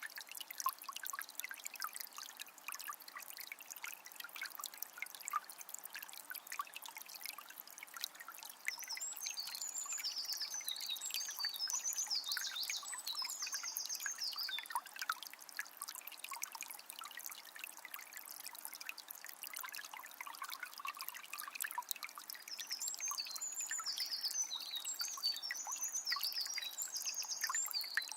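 Water from a small spring trickling and splashing steadily. A bird sings a high, chirping song phrase about nine seconds in and again near the end.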